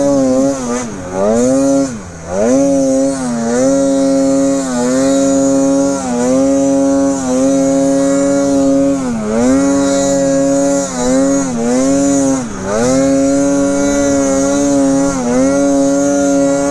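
Snowmobile engine running at high revs, its pitch dropping briefly and climbing back again and again as the throttle is let off and reapplied while riding in deep snow.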